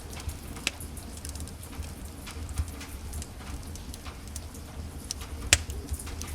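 Wood fire in a fireplace crackling: a scatter of small snaps and pops over a low steady rumble of burning, with one louder pop near the end.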